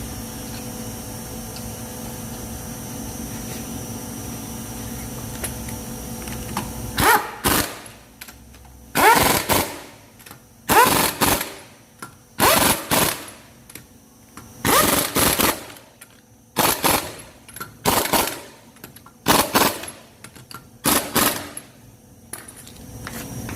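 An impact wrench hammering wheel lug nuts tight in about nine short bursts, after a steady hum in the first seven seconds.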